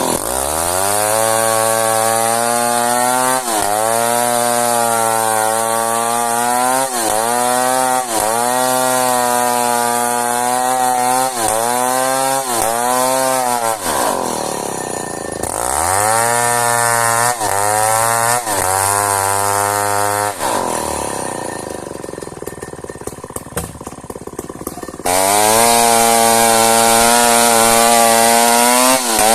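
Chainsaw cutting into a hardwood merbau log, its engine sagging under load and picking up again every second or so. About halfway it drops back briefly. After cutting again, it runs lower and quieter for a few seconds, then suddenly goes loud and high near the end.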